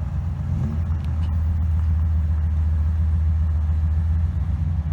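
Car engine idling close by: a deep, steady rumble.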